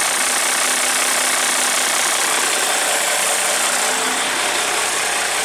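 A bus's diesel engine idling steadily, which its owner reckons is running a bit better now that it has been restored after a loss of fuel prime.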